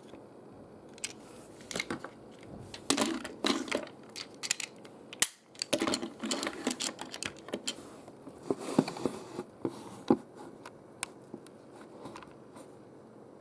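Irregular small clicks, taps and rattles of hard objects, busiest from about three to ten seconds in, then sparse.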